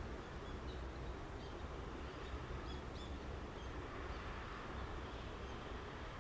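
Faint, short high-pitched bird chirps, scattered and bunched about halfway through, over a steady low outdoor rumble.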